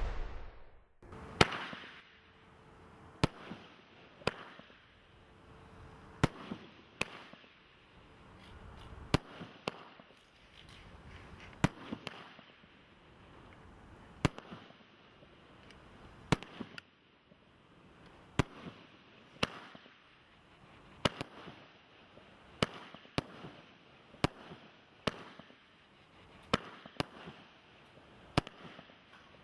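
A 98-shot firework barrage cake firing in sequence: sharp single bangs about one a second, some in quick pairs.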